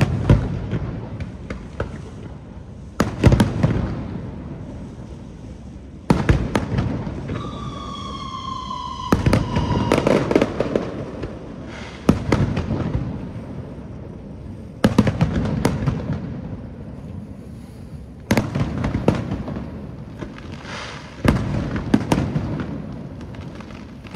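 Aerial firework shells bursting about every three seconds, each sharp bang trailing off. A falling whistle sounds briefly about seven seconds in.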